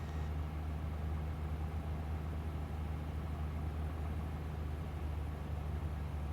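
Cessna 172G's Continental O-300 six-cylinder engine and propeller running steadily, heard as a low, even drone through the cockpit intercom.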